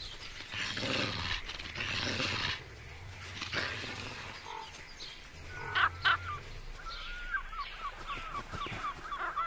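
Soft noise at first, then bird calls: two sharp calls about six seconds in, followed by a run of quick chattering calls.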